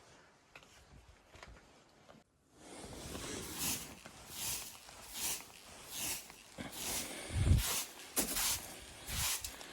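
Footsteps crunching through snow at a steady walking pace, about one step every three-quarters of a second, starting about two seconds in.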